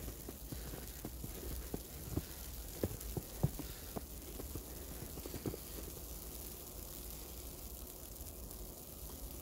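Footsteps on snow, a run of irregular steps that die away about six seconds in, over a steady outdoor hiss.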